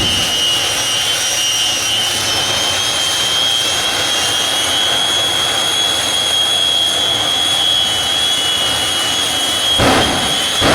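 Jet turbine engines of a jet-powered truck running at a steady high-pitched whine over a rushing hiss, the pitch creeping up slightly. Low rumbling pulses break in near the end.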